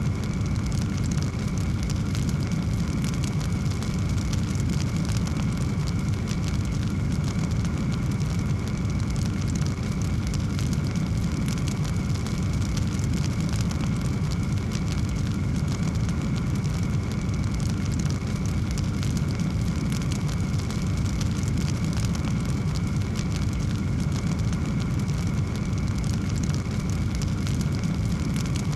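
Wood fire burning in a fireplace: a steady low rumble of flames with dense, continuous crackling. A faint steady high tone runs underneath.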